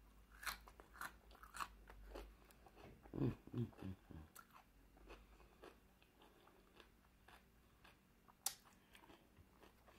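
Close crunching and chewing of fresh cucumber, with a short hum about three seconds in and one sharp click near the end.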